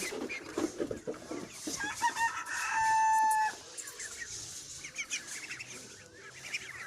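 Rooftop poultry clucking, with a rooster crowing once a little under three seconds in, the loudest sound here.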